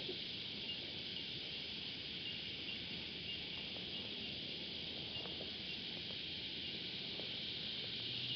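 Cicadas singing in a steady, high-pitched chorus, with a few faint knocks underneath.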